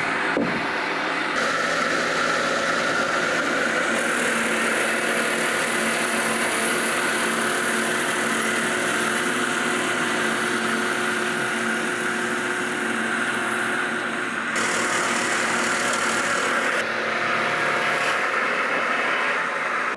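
Sawmill's engine running steadily under power. A high hiss joins about four seconds in and drops out near fifteen seconds.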